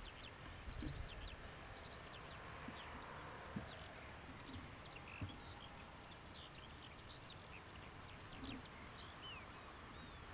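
Faint birdsong over open fields: many quick chirps and short whistled notes, with two soft clicks near the middle.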